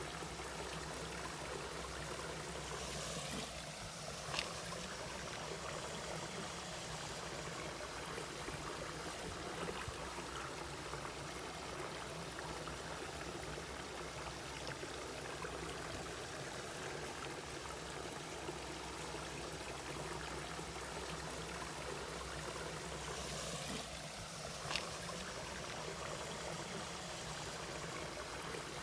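Mountain stream water flowing steadily over rocks, with a brief sharp splash-like sound twice, about twenty seconds apart.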